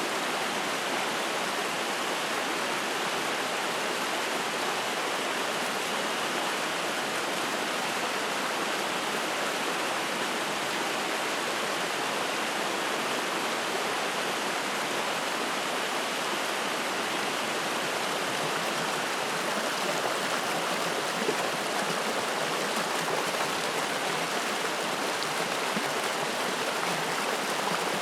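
Spring-fed mountain stream running and splashing over rocks: a steady wash of flowing water.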